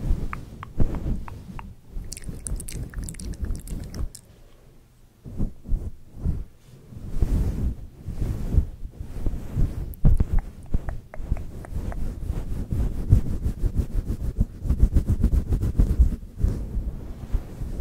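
Close-miked ASMR mouth sounds and hand movements: scattered wet clicks and crackles over low rumbling brushes against the microphone, with a run of fast, evenly spaced clicks starting about twelve seconds in.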